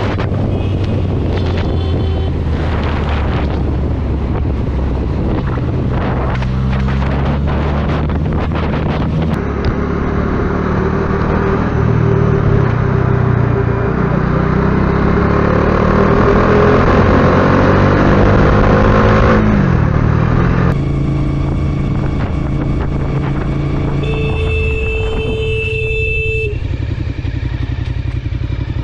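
Motorcycle engine running under way, its revs climbing steadily through the middle, then dropping off sharply. Near the end a steady high tone sounds for about two seconds over the engine.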